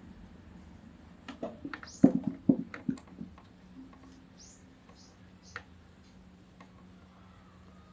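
Scattered short high chirps, like small birds calling in the background, with a few sharp clicks and taps about two to three seconds in, over a faint steady low hum.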